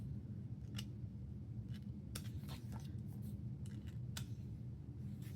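Faint, scattered clicks and light rustles of glossy paper album cards and photobook pages being handled, over a low steady background hum.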